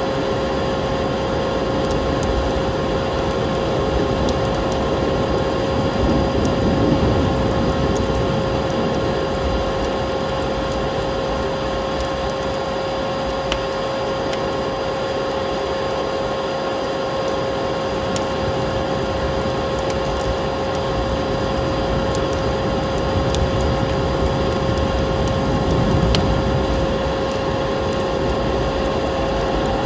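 Steady vacuum-cleaner motor drone with a constant high whine, layered with the scattered small crackles of a wood fire.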